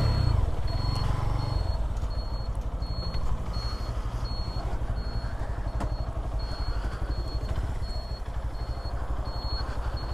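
Motorcycle engine running at low revs, with a short high beep repeating about twice a second.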